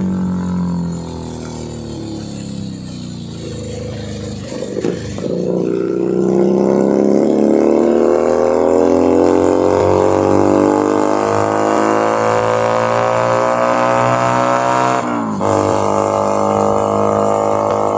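Keeway SCR 250V motorcycle engine and exhaust while riding. The pitch eases off at first, then from about five seconds in climbs steadily for some ten seconds under acceleration, drops sharply about fifteen seconds in, and then holds steady.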